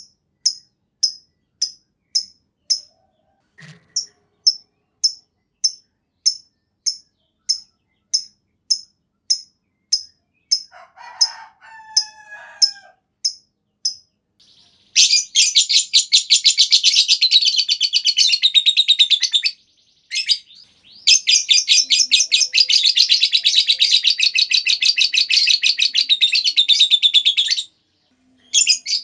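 Lovebird calling: sharp high chirps about two a second, then two long, rapid chattering trills of several seconds each. This is the long 'ngekek' song that keepers use to set other lovebirds singing.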